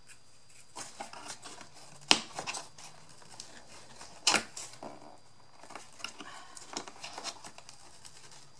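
Scattered light clicks and taps of small craft pieces being handled and pressed, with two sharper clicks about two seconds and four seconds in.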